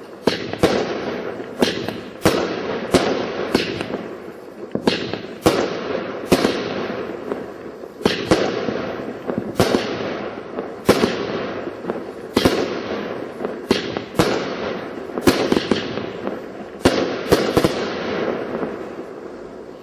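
Large display fireworks going off in quick succession: a run of sharp bangs, roughly one or two a second, each trailing off into a fading rumble.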